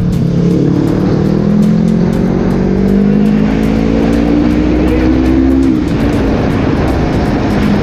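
Yamaha R3 motorcycle's parallel-twin engine revving through its newly made silencer, its pitch rising steadily for about five seconds and then falling back.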